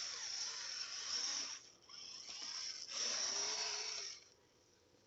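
Kyosho Blizzard RC snowcats driving through snow: a hissing whir from the electric drive and the tracks churning snow, in three spurts that stop about four seconds in.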